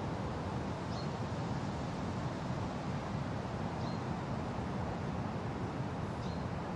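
Wind blowing steadily through a forest as an even, low-heavy hiss, with a bird giving a short high chirp three times, a couple of seconds apart.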